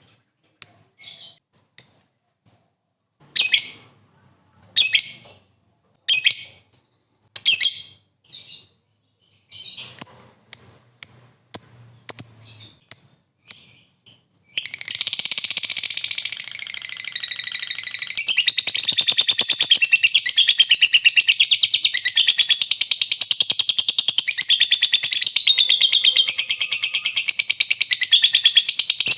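Lovebird giving short, separate high chirps, then about halfway through breaking into a long, unbroken, rapid chattering trill: the 'ngekek panjang' (long ngekek) call.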